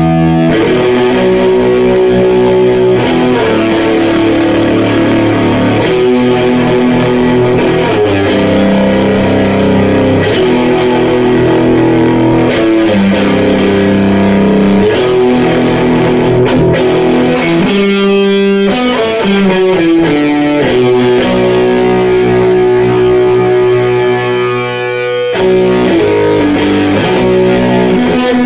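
Electric guitar (Fender Telecaster Custom) played through a Sound JS HM-5 distortion pedal into a Fender Deluxe Reverb amp, heard straight from the mic'd amp: loud, heavily distorted sustained chords and riffs, the changes coming every second or two, with a brief break about 25 seconds in.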